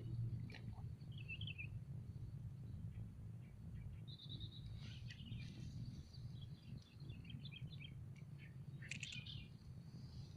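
Birds chirping and calling: short high trills and runs of quick notes, the busiest stretch from about four seconds in, over a low steady rumble.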